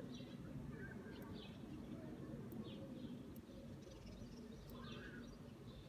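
Faint, scattered chirps of small birds, short high notes about a second apart, over a low steady hum.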